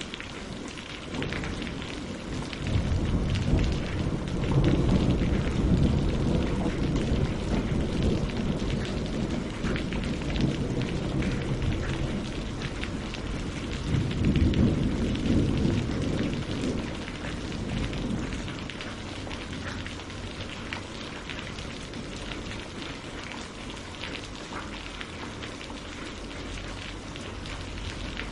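Steady rain falling on leaves and lake water, a dense patter of drops. Two long, deep rumbles swell up, the first about three seconds in and the second around fourteen seconds.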